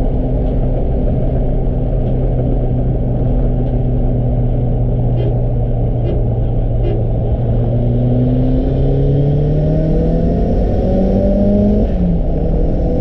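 Turbocharged Mazda Miata engine heard from inside the cabin at highway speed, a steady drone over road noise. About two-thirds of the way through its pitch starts rising as the car accelerates, with a brief dip in pitch near the end.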